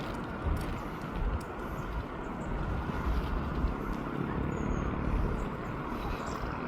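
Steady outdoor background noise with irregular low rumbling and a few faint, brief high chirps.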